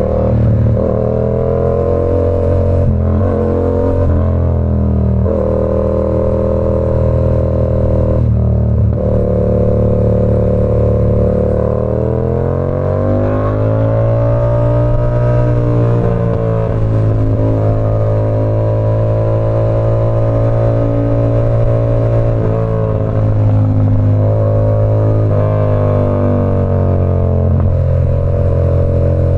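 Yamaha R7's parallel-twin engine through an SC Project CR-T exhaust, heard while riding. The engine note dips briefly several times early on, rises smoothly under acceleration about halfway through, then holds a steady speed with a few short dips near the end.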